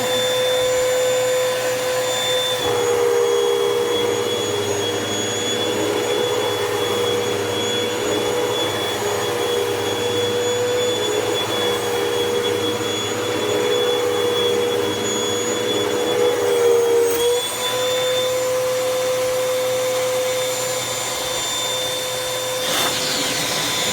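Bagless upright vacuum cleaner running with a steady high-pitched whine. A second, slightly lower tone joins about three seconds in and drops away around seventeen seconds. There is a short click near the end.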